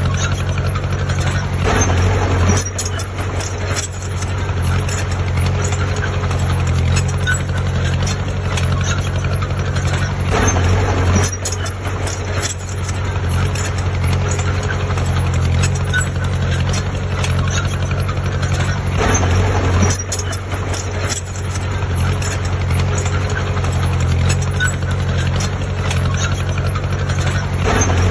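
Heavy earthmoving machinery's diesel engine running steadily, swelling louder about every eight to nine seconds.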